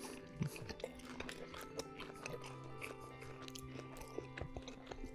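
Close-miked chewing and crunching of crisp pizza crust, a run of small crunches, over faint background music of held notes.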